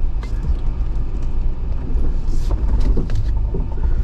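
Jeep Wrangler crawling down a rocky drop off-road: a steady low engine and drivetrain rumble with several knocks and scrapes as it comes down over rock, clustered about two and a half to three and a half seconds in.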